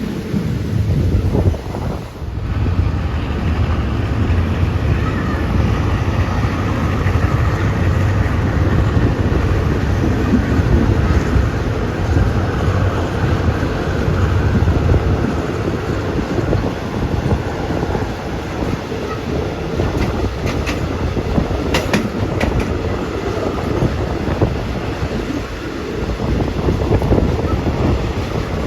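Train running along the track: a steady rumble with a few sharp clicks about 20 seconds in.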